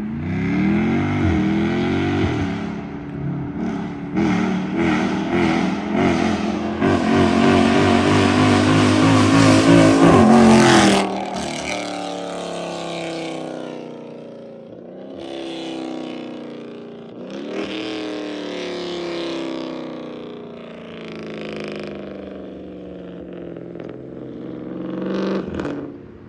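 Catless straight-piped SRT Jeep accelerating hard past in a flyby, its exhaust climbing through several upshifts. It is loudest about ten seconds in, drops off sharply as it passes, and goes on more faintly through further shifts into the distance.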